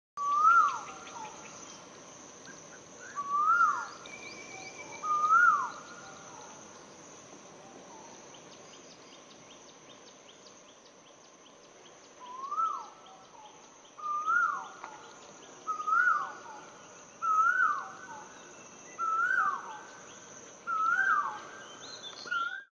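A bird calling over and over, each call rising then dropping sharply in pitch, about one every second and a half, with a pause of several seconds in the middle. A steady high insect drone runs underneath.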